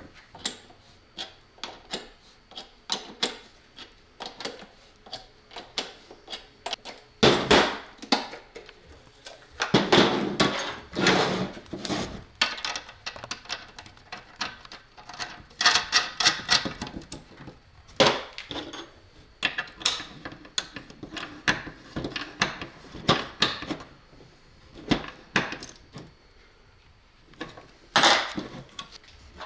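Hand tools and small metal parts being handled and worked at a bench: a rapid, irregular series of clicks, knocks and rattles, with a few longer clattering stretches.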